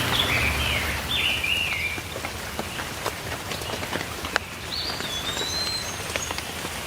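Steady rain with individual drops ticking, and a songbird singing short stepped phrases over it for the first two seconds, then a whistled phrase about two-thirds of the way through.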